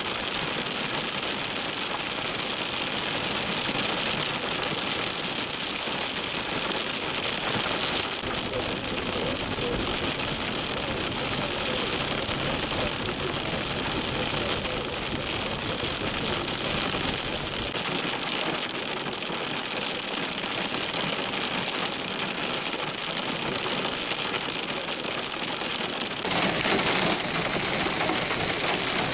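Heavy wind-driven rain hissing steadily during a severe thunderstorm. The sound shifts slightly about eight seconds in and gets louder and brighter a few seconds before the end.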